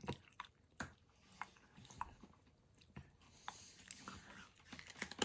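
Faint, irregular crunches of someone biting and chewing a hard, crunchy snack.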